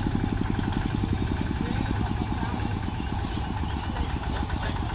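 A small engine running steadily at idle with a fast, even pulse.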